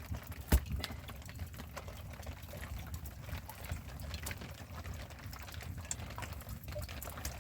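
Water sounds, splashing and trickling, with scattered small clicks and one sharp knock about half a second in.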